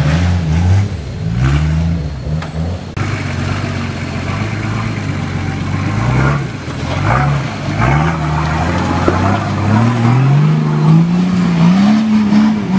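Off-road vehicle's engine revving in repeated rises and falls of pitch, working hardest and climbing highest in the last few seconds.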